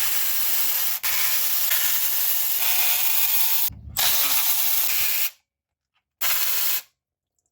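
A power tool runs in three trigger bursts with a loud hiss and a faint steady whine: one of about three and a half seconds, one of just over a second, and a short one near the end. The bursts are the tool taking out the water pump's bolts.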